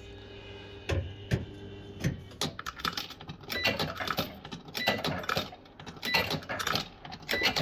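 Bell-Fruit FireCracker fruit machine in play: a rapid run of mechanical clicks and ticks, with short electronic bleeps every second or so.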